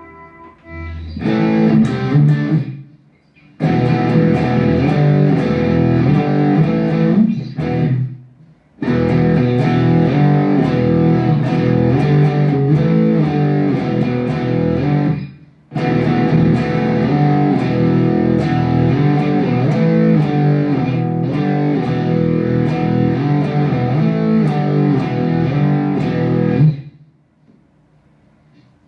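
Electric guitar played through a Mooer GE100 Pro multi-effects processor preset: ringing chords in phrases with short breaks between them, stopping about two seconds before the end.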